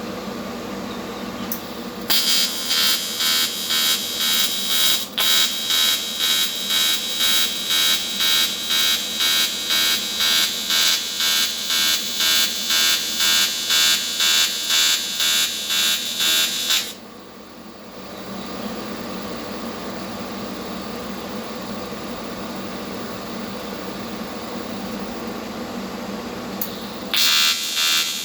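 AC TIG welding arc on aluminum with pulse switched on, from a Vulcan ProTig 205: a loud buzz that swells and fades about one and a half times a second. It stops a little past halfway, leaving a steady machine hum, and the pulsing arc strikes again near the end.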